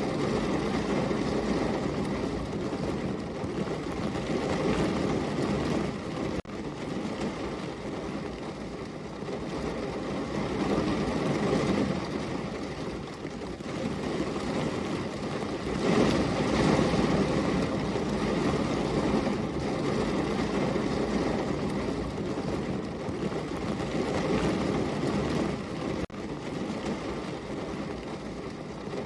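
Steady heavy rain, a dense, even rushing hiss with a low rumbling weight that swells and eases slowly, with two brief dips about six seconds in and near the end.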